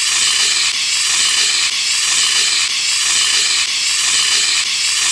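Fire extinguisher discharging in one continuous, loud hiss.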